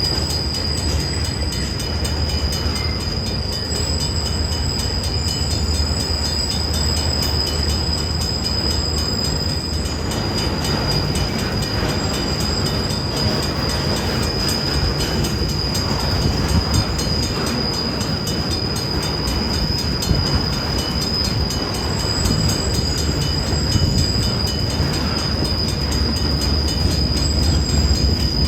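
Freight train cars rolling past with steady wheel-on-rail noise and rapid clicking, over a thin, high, unbroken squeal.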